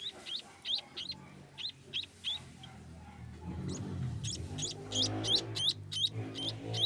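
Young maya birds (Eurasian tree sparrows) chirping over and over in short, high calls, begging to be fed; the calls grow faster and louder about halfway through. A low, steady hum comes in under them around the middle.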